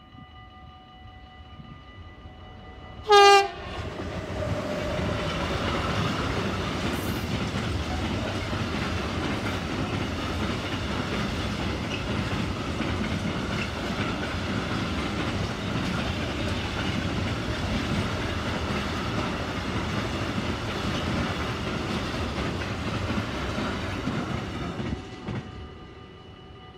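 Siemens Vectron electric locomotive sounds one short, loud horn blast about three seconds in. It then passes hauling a long container train: a steady rumble and clatter of wagon wheels on the rails for about twenty seconds, fading away near the end.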